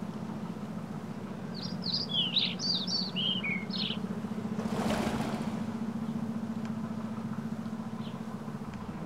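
A quick run of high bird chirps over a steady low hum, then a single whoosh about five seconds in, and one more faint chirp near the end.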